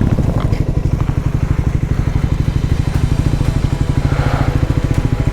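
Triumph Scrambler 400X single-cylinder engine running in first gear at low revs, an even rapid pulsing exhaust beat. A short hiss rises over it about four seconds in.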